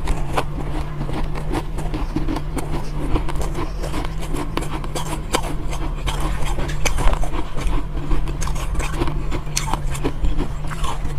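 Soft, powdery ice being bitten and crunched: a run of irregular crisp crackles over a steady low hum.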